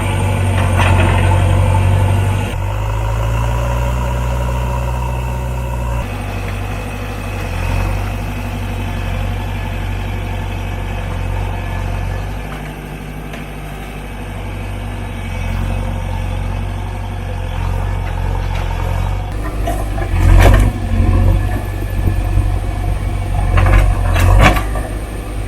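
Diesel engine of a JCB 3DX backhoe loader running while it works soil, its sound shifting abruptly a couple of times early on. Several loud knocks come near the end.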